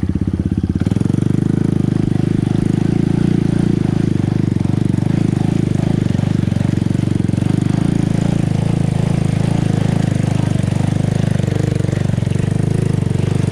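ATV engine running steadily at low speed, a dense, even pulse with a slight rise and fall in pitch near the end.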